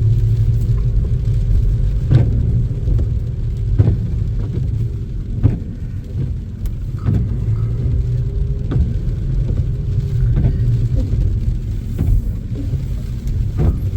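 Car cabin while driving: steady low road and engine rumble, with a short knock repeating regularly about every one and a half to two seconds.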